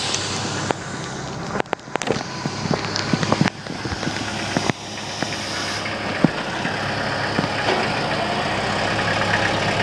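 A large tractor's engine running steadily, with several sharp knocks and clanks in the first half.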